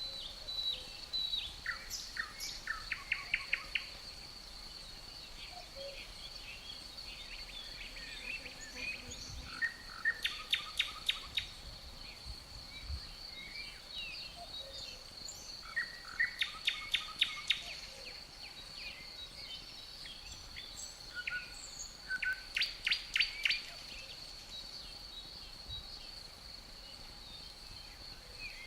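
A songbird repeating a short phrase of rapid notes about every six or seven seconds, four times, over the steady high drone of crickets.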